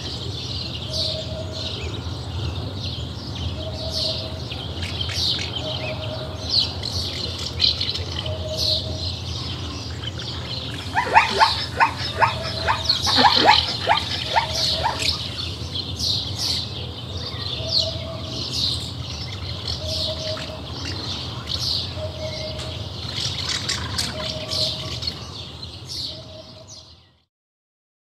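Birds chirping, with a short low note repeating about every two seconds and a burst of louder, rapid calls in the middle; it fades out just before the end.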